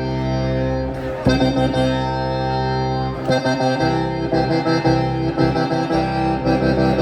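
Accordion playing long held chords, changing chord about a second in and again about three seconds in.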